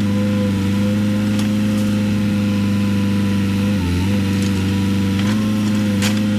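Case 580 Super K backhoe loader's diesel engine running steadily at working speed, its note sagging briefly about four seconds in before recovering, with a few faint clicks or knocks.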